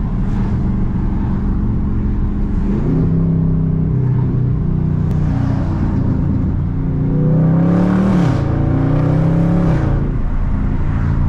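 A Dodge's 392 Hemi V8 heard from inside the cabin while accelerating through the gears. The engine note climbs in pitch, drops at an upshift about eight seconds in, and changes pitch again near three and ten seconds in.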